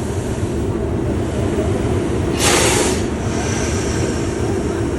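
Class 37 diesel locomotive's English Electric V12 engine idling with a steady low rumble. A short burst of hiss lasting about half a second comes about halfway through.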